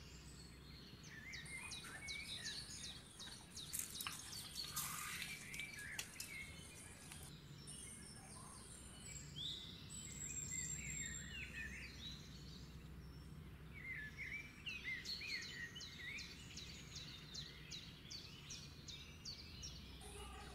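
Small birds chirping repeatedly in quick, short calls, with scattered faint clicks and crackles.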